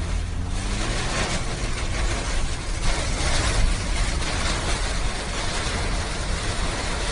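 Rain mixed with hail striking a moving car's roof and windscreen, a dense rattle of many small impacts that thickens about a second in, over the low hum of the engine and road noise.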